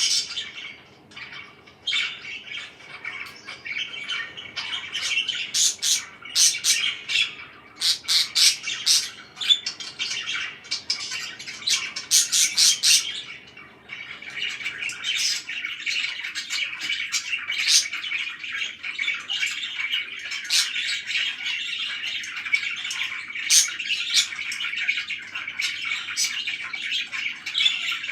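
Pet parakeets chattering and chirping, with sharp squawks. The calls come in loud bunches for the first half, then settle into steadier, continuous chatter.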